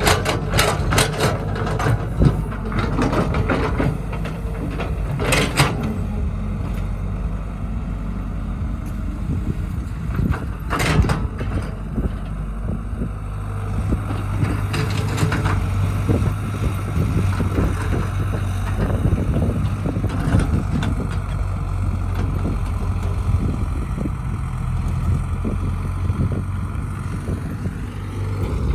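Caterpillar 312B excavator's diesel engine running steadily, with several sharp clanks and knocks in the first half.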